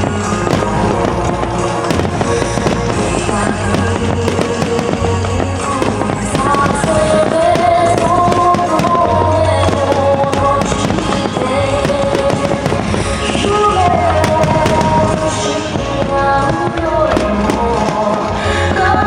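Fireworks bursting again and again over music with a sustained melody.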